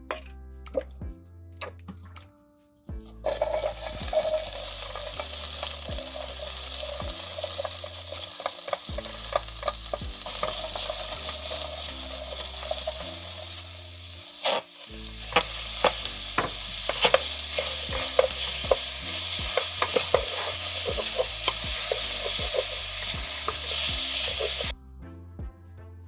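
Food stir-frying in hot oil in a pot, sizzling loudly, with frequent clicks and scrapes of a utensil stirring it. The sizzle starts suddenly about three seconds in and cuts off shortly before the end.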